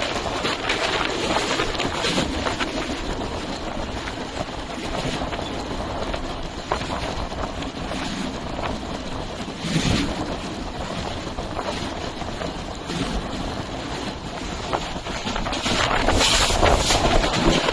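Passenger express train passing through a station at speed without stopping: a steady rush and rumble of wheels on rails with scattered sharp clicks, growing louder about sixteen seconds in, and wind buffeting the microphone.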